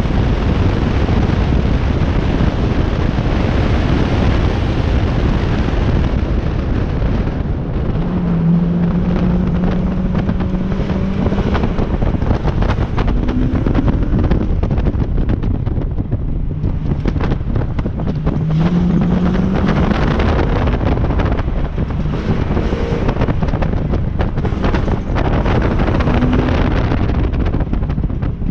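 Wind buffeting an outside car-mounted microphone over a 2001 Ford Mustang GT's V8 engine, which revs up and eases off several times as the car accelerates between cones.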